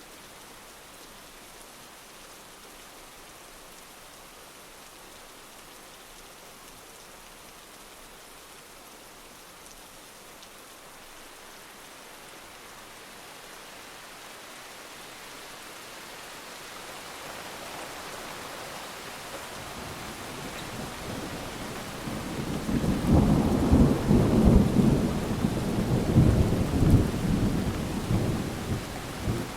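Steady heavy rain hiss, then a roll of thunder that builds from about halfway through and rumbles loudest for several seconds near the end before easing off.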